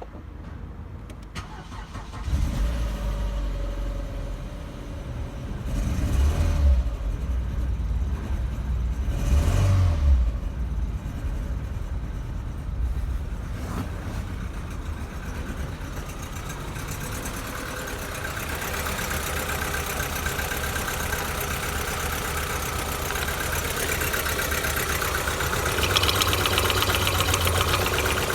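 Opel Vectra B's Z18XE 1.8-litre four-cylinder petrol engine starting about two seconds in, then revved briefly twice and left idling; the running sound grows a little louder towards the end.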